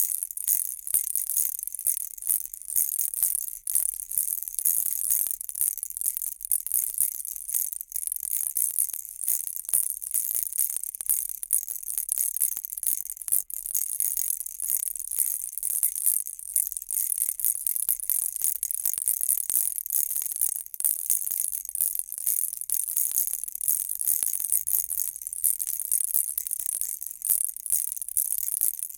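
A baby rattle shaken without pause: a dense, high, bright clatter of quick rattling strokes.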